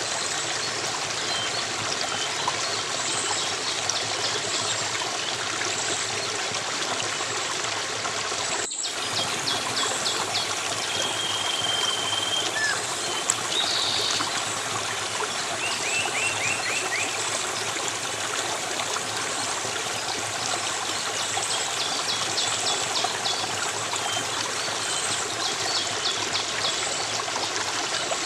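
Steady running water of a trickling stream, with small birds chirping and giving short rapid trills over it. The sound cuts out for an instant about nine seconds in.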